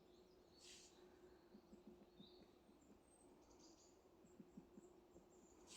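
Very faint, irregular tapping of a woodpecker pecking at a tree, barely audible, with a few faint high bird chirps.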